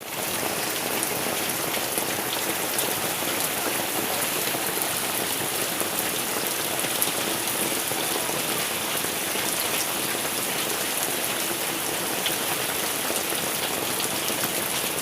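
Heavy rain falling and pattering on surfaces in a dense, steady hiss.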